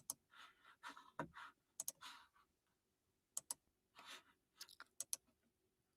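Near silence broken by a scatter of faint, sharp clicks, several in quick pairs, with a few soft breathy rustles between them.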